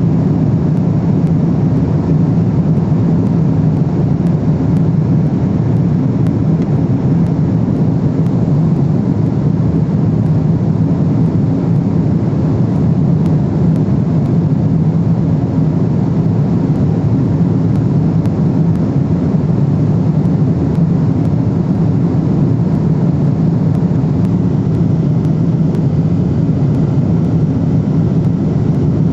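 Steady cabin noise of a Boeing 777-300ER in cruise flight: a constant low rumble of airflow and engine noise, heard from inside the cabin.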